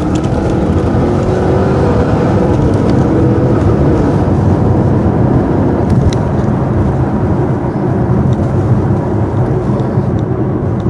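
Chevrolet Camaro SS's 6.2-litre V8 under hard acceleration, heard from inside the cabin. The engine note rises over the first few seconds, then settles into a loud steady drone mixed with road noise.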